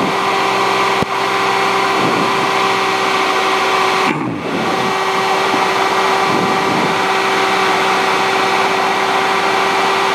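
Cessna 150's engine and propeller running steadily, heard inside the cabin on final approach, with a brief dip about four seconds in.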